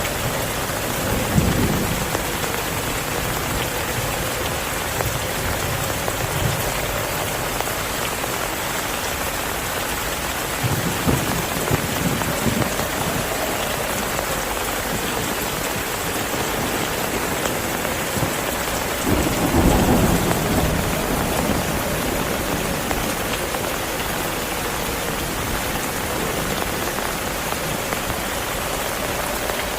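Heavy rain falling steadily, with low rolls of thunder: a short one near the start, another about a third of the way in, and the strongest about two-thirds of the way through.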